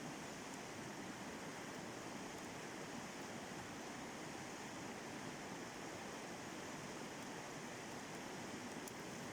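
River rapids rushing: a steady, even roar of fast-flowing water.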